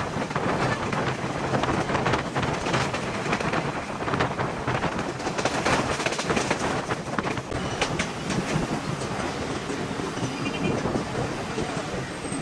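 Passenger train running along the track, heard through an open carriage window: a steady rushing run noise with the wheels clacking over the rails again and again.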